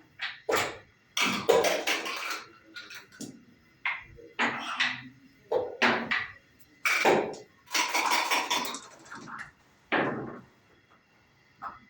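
Clatter of backgammon play: dice rattling and being thrown, and checkers knocking on the board, in about a dozen short sharp bursts.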